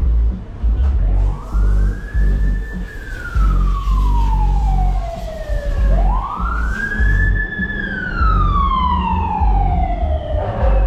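Emergency vehicle siren wailing: two slow cycles, each rising quickly and then falling slowly, over a loud pulsing low rumble.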